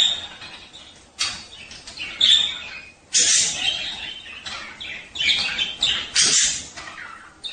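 Budgerigars chattering in harsh, scratchy squawks and warbles, in repeated bursts about once a second: the breeding-time chatter of male budgies.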